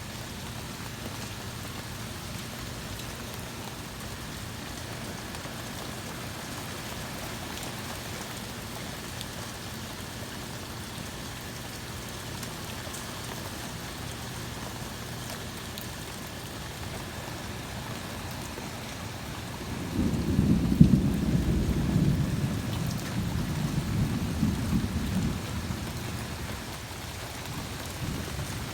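Steady rain, then about two-thirds of the way through a loud, deep clap of thunder breaks in and rumbles on for several seconds before dying away.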